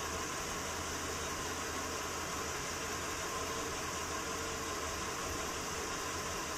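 Ford Grand Marquis 4.6-litre V8 idling steadily while its transmission pump pushes old fluid out of a disconnected cooler hose into a container during a transmission fluid flush.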